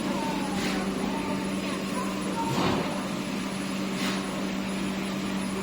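Factory machinery on an egg tray production line running with a steady hum, with a few short clattering knocks and faint voices in the background.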